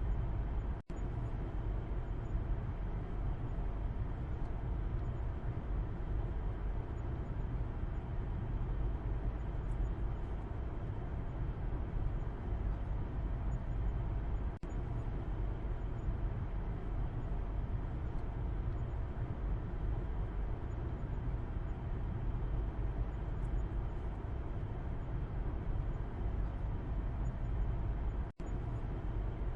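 Steady low road rumble of a moving car heard from the back seat, tyre and engine noise strongest in the low end. The sound cuts out for an instant twice, about a second in and near the end.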